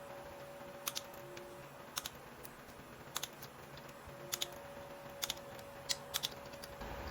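Ratcheting torque wrench clicking as it tightens the primary cover bolts on a Harley-Davidson Sportster: sharp clicks about once a second, often two in quick succession.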